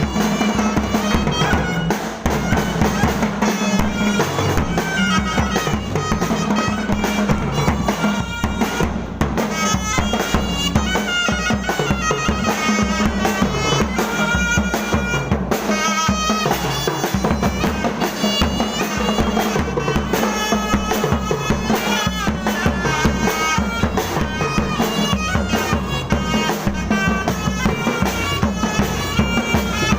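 Thai procession band music: a reedy wind instrument plays a wavering melody over a steady low drone, with dense, driving drum and percussion beats.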